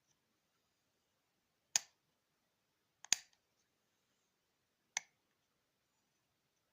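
Three sharp clicks, a second or two apart, with quiet between them, from handling the portable mini fan.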